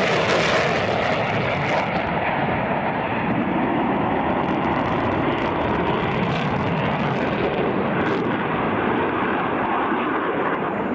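Jet aircraft engine noise: a steady, loud rush with no clear pitch.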